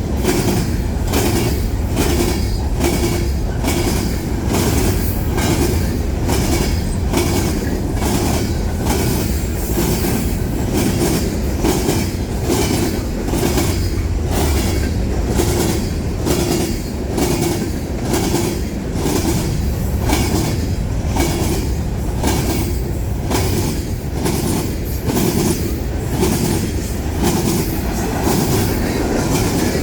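Freight cars of a manifest train rolling past at speed, their wheels clicking over the rail joints in a quick, steady rhythm under a continuous rumble.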